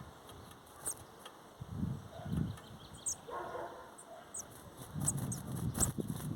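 Small birds chirping while feeding: many short, high, falling chirps, mixed with scuffling and a lower whining animal call about halfway through.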